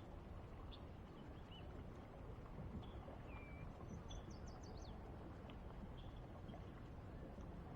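Scattered short bird chirps and a brief whistled note, bunched in the middle, over a faint steady low rush.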